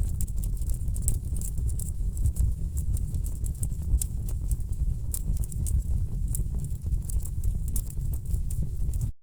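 Wood fire burning in a fireplace: a steady low rumble of flames with many sharp, irregular crackles and pops from the burning logs. The sound cuts out for a split second near the end.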